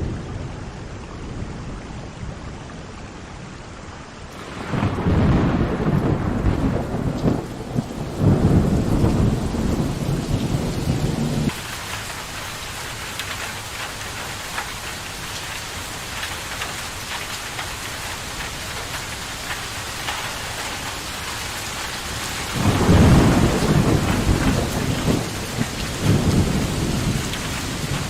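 Steady rain with two long rolls of thunder, the first starting about four seconds in and lasting several seconds, the second near the end. About eleven seconds in, the rain's hiss turns brighter and fuller.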